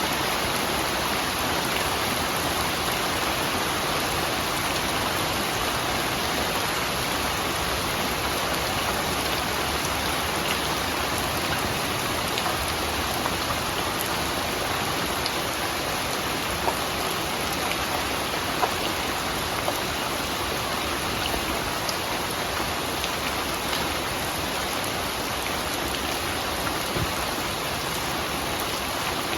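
Steady rain falling, an even hiss of rain on surfaces with a few sharper drop ticks now and then.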